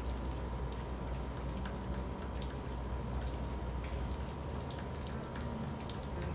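Steady rain with individual drops ticking here and there, over a low rumble.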